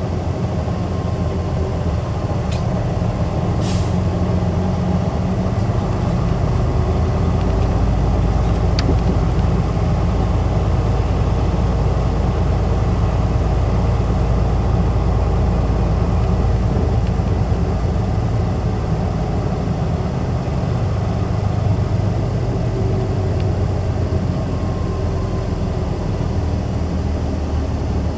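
Isuzu Erga city bus running, heard from inside the cabin: a steady low engine and road rumble that grows a little a few seconds in and eases off near the end, with a few faint clicks.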